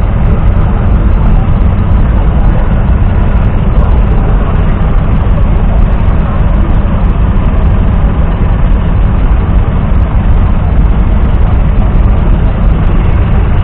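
1969 John Deere 1120's 2.7-litre three-cylinder diesel engine running steadily, a loud, even low rumble.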